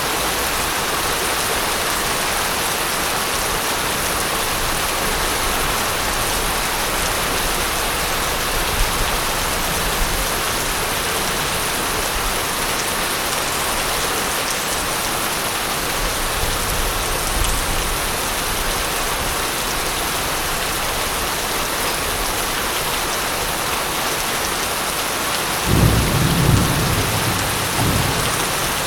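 Steady rain falling, with thunder in the storm: a few soft low rumbles, then a louder rumble of thunder rolling for about two seconds near the end.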